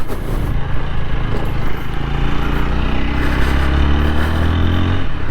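TVS Apache 160 4V single-cylinder motorcycle engine running just off idle, its pitch rising a little in the second half as it is given some throttle. The owner says the tappets are making noise.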